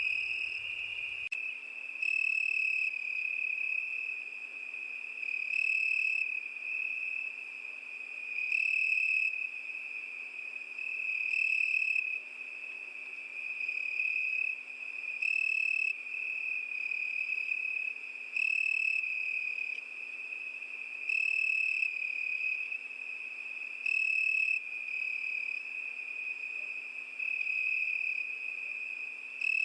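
Crickets singing: a steady high trill, with a louder bout about every three seconds.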